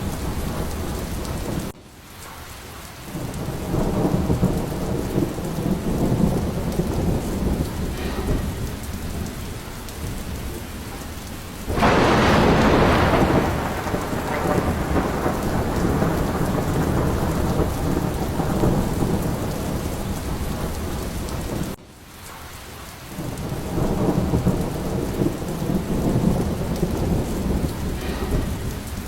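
Steady heavy rain with rolling thunder rumbles. About twelve seconds in comes a sharp, loud thunderclap that fades into a long rumble. Twice, at about two and about twenty-two seconds in, the sound drops away suddenly and builds back up over a second or so.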